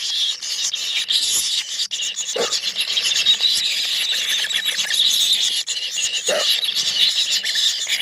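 Four nestling tengke birds in a nest hole keeping up a constant, noisy, high-pitched chatter of begging calls. Two short, lower sounds break in about two and a half and six seconds in.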